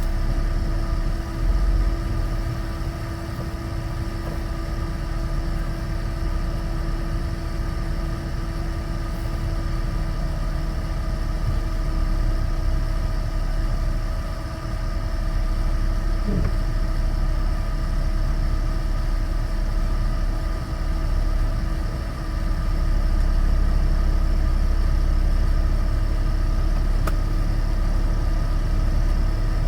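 Inside the cab of a 2013 Chevrolet Avalanche pickup while driving: a steady low drone of engine and road noise with a few steady tones over it, a little louder over the last third.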